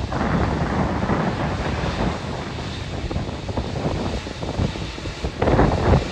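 Strong wind buffeting the microphone in gusts, swelling sharply near the end.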